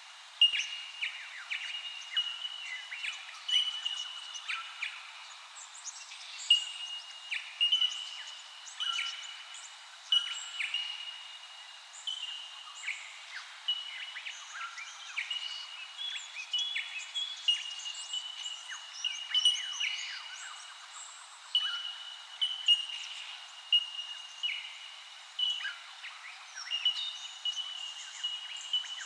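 A chorus of many small birds chirping and whistling, with short calls overlapping one another without a break.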